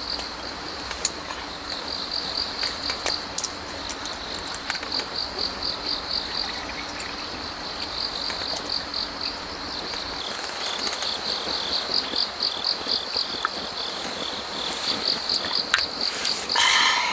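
Autumn field crickets chirping in repeated trains of quick, high-pitched pulses, over the steady rush of a flowing stream, with a few faint clicks scattered through. Near the end a short, louder pitched sound cuts in briefly.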